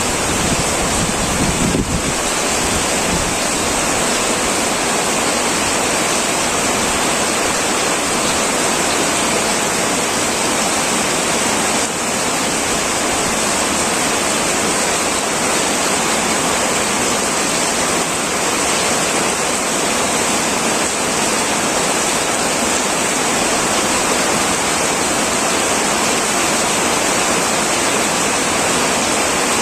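Heavy rain pouring onto a tin roof: a steady, dense hiss with no pauses. A low rumble under it fades out about two seconds in.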